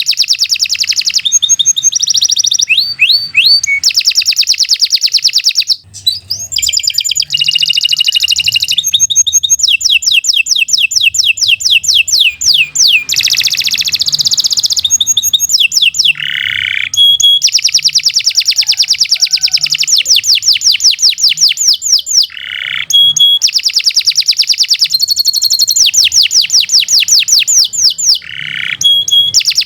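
A domestic canary singing a long, loud song of fast trills, rapid repeated notes and quick sweeping phrases, with only brief pauses between phrases.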